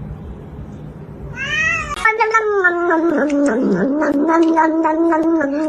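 A domestic cat yowling: a short rising cry, then one long drawn-out yowl that slides down in pitch and holds steady.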